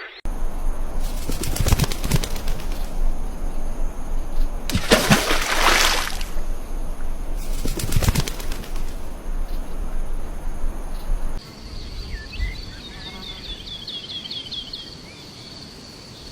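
Bird wings flapping close by in three loud bursts over a noisy background. About eleven seconds in, the sound cuts to a quieter passage where a small bird gives a quick run of short chirps.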